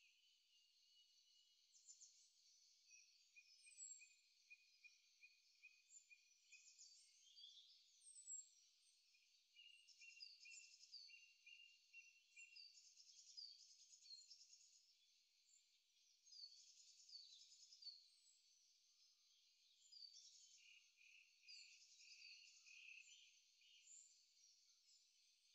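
Faint birdsong: many overlapping chirps, quick downward whistles and rapid pulsed trills from several birds at once.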